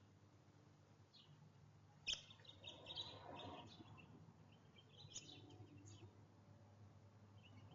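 Faint chirps of small birds in short clusters, with a sharp tap about two seconds in.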